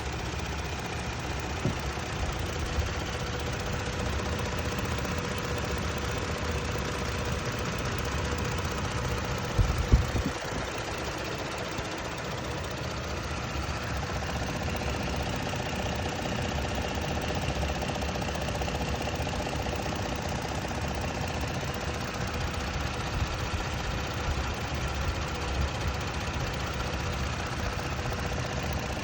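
2022 Toyota Tacoma engine running steadily with a rapid ticking noise, at only about 1,400 miles. A single thump sounds about ten seconds in.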